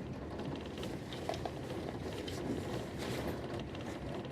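Steady running rumble of a passenger train heard from inside the carriage, with a few faint ticks.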